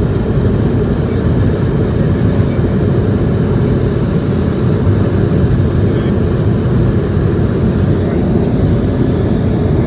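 Steady in-flight cabin noise of an Airbus A220-100: the constant rush of airflow and its Pratt & Whitney PW1500G geared turbofan engines, deepest and loudest in the low range, with a few faint light ticks.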